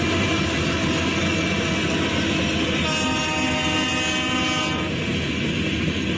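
Freight train of covered hopper cars rolling past with a steady rumble of wheels on rail. About three seconds in, a locomotive air horn sounds one blast of about two seconds.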